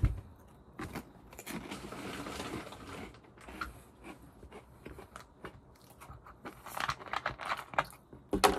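Crunchy O!Gamja gratin potato snack sticks being chewed up close, with rustling of the foil snack bag, in crunchy spells about a second in and again near the end. A louder sharp crackle comes just before the end.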